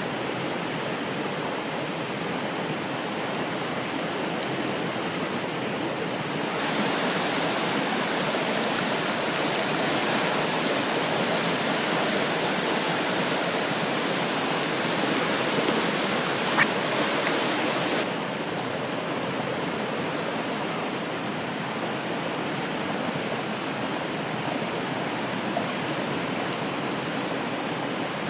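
Steady rushing of a flowing river. It gets louder and brighter for about ten seconds in the middle, with one sharp click near the end of that stretch.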